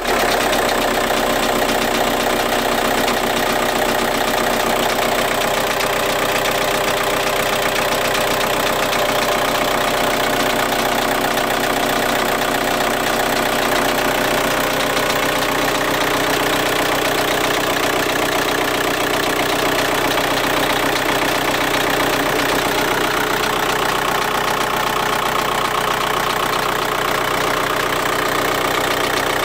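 Volkswagen Golf 5 1.9 TDI four-cylinder diesel engine idling steadily, with a rattle every few seconds. The rattle dies away two to three minutes after the engine is started; the owner does not know its cause.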